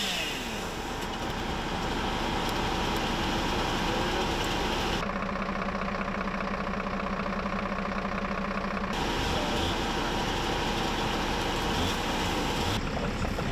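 Steady engine running, with the sound changing abruptly about five seconds in to a steadier, lower hum and back again about nine seconds in.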